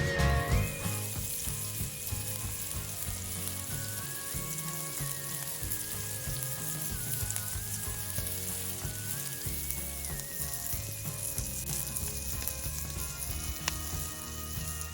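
Food frying over a campfire, a steady sizzle, with soft background music over it and one sharp tick near the end.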